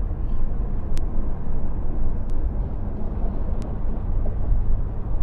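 Steady low rumble of a subway train running across a steel bridge, with three faint sharp clicks a little over a second apart.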